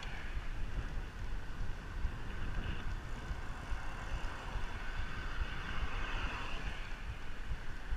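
Steady wind rumble on the microphone with continuous road and tyre noise from a moving bicycle.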